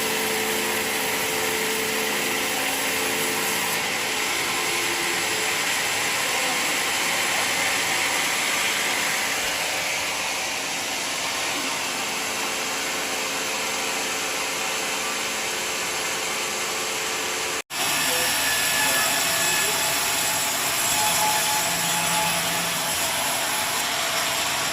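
Portable sawmill sawing a mahogany log, its engine and blade making a steady mechanical noise. A split-second dropout breaks the sound about two-thirds of the way through.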